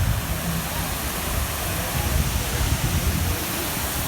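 Steady rushing of running water, with indistinct voices in the background and low wind buffeting on the microphone.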